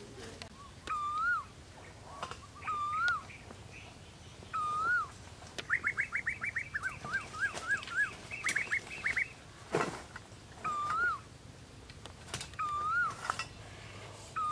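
Forest birdsong: one bird repeats a short whistled note that rises and falls, every couple of seconds, and from about six to nine seconds in there is a fast run of chirps, several a second. A single sharp crack sounds near ten seconds in.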